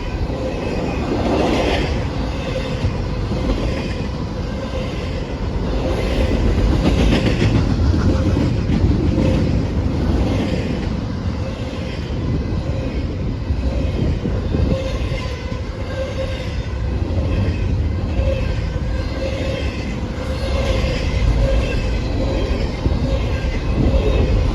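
Train cars rolling past, with a steady rumble and wheels clicking over rail joints again and again.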